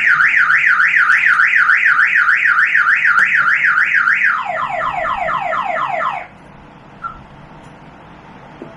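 Electronic car alarm siren warbling up and down about three times a second, then switching to quick falling whoops about five a second, and cutting off about six seconds in.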